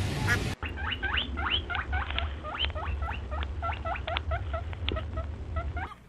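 A small animal squeaking: a rapid run of short, high squeaks that each rise sharply in pitch, several a second, over a low rumble. A mallard's quacks are heard briefly at the very start, before a cut.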